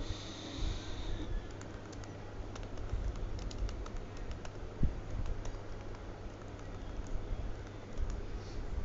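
Scattered light clicks, like typing on a keyboard, over irregular low thumps and a steady low hum.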